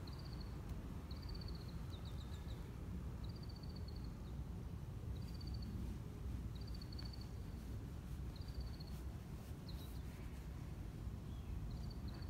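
A small bird giving short, high trilled calls at irregular intervals of one to two seconds, over a low steady rumble.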